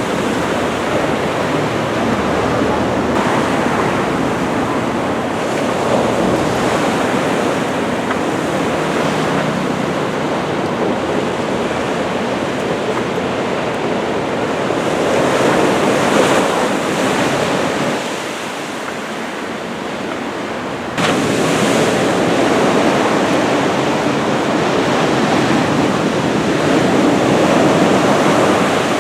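Ocean surf from a typhoon swell breaking and washing continuously, swelling and easing with the sets, with wind noise on the microphone. The level dips for about three seconds around two-thirds of the way through, then jumps back up abruptly.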